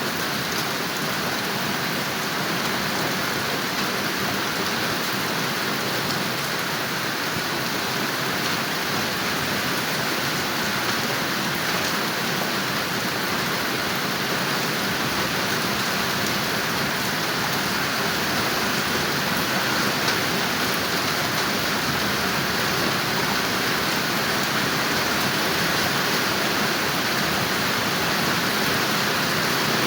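Steady rainfall, a continuous even hiss of many drops landing on a surface.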